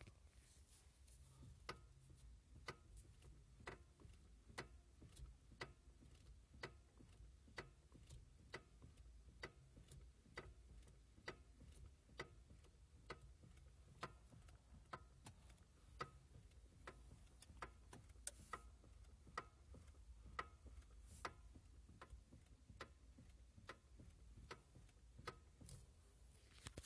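Faint, even ticking, about one sharp click a second, with quieter clicks between, over a low steady hum.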